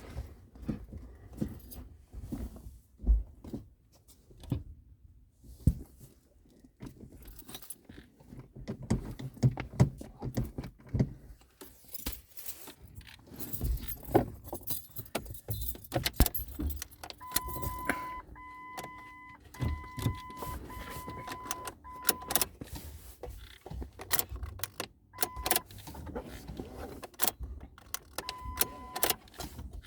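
Car keys jangling and clicking as they are handled, with sharp knocks and clicks throughout. From about halfway through, a car's electronic warning chime beeps steadily about once a second, stops for a moment, then beeps again near the end.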